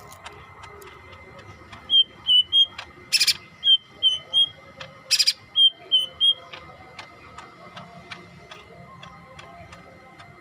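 Yellow-headed cucak hijau (green leafbird) singing. It gives three short phrases of three clear whistled notes, broken by two harsh, rasping calls. Faint, steady ticking runs behind the song.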